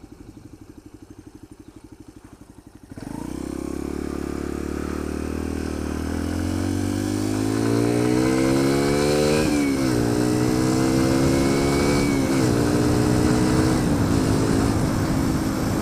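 Sinnis Apache 125 motorcycle's single-cylinder four-stroke engine idling, then pulling away about three seconds in, rising in pitch as it accelerates. It shifts up twice, with a drop in pitch each time, then settles to a steady cruise under wind noise.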